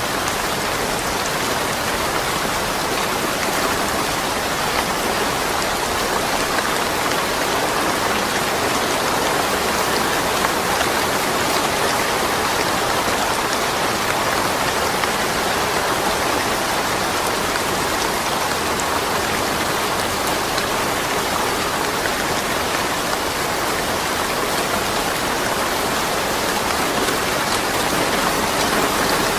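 Steady rain falling, an even hiss with fine drop patter and no thunder.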